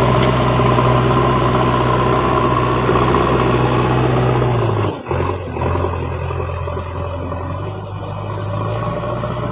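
JCB backhoe loader's diesel engine running steadily. About halfway through the sound dips sharply for a moment, then the engine note sits lower before rising again near the end.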